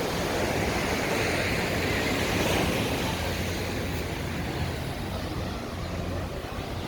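Wind buffeting the microphone outdoors: a steady, uneven rumble that eases a little near the end.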